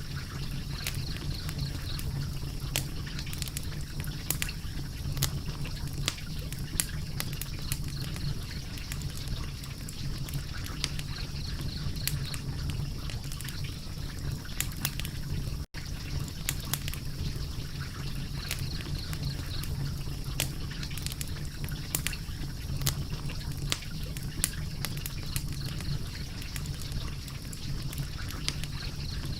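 Wood fire crackling, with frequent sharp pops and snaps over a steady low rumble of burning. The sound drops out for an instant about halfway through.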